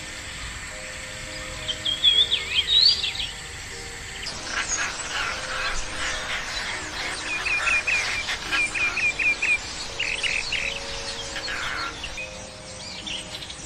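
Songbirds chirping and singing: a loud run of rising chirps about two seconds in, then from about four seconds a busier chorus of several birds that includes a quick series of short repeated notes. Soft background music with long held notes plays underneath.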